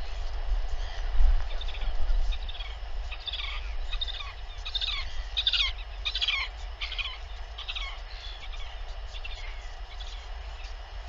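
A bird calling a long run of short high chirps, about two a second, each sliding down in pitch, loudest about halfway through and fading toward the end, over a low steady rumble of wind on the microphone.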